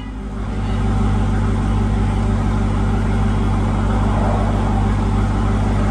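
Jeep Grand Cherokee Trackhawk's supercharged 6.2-litre V8 idling steadily, its hum building over about the first second and then holding even.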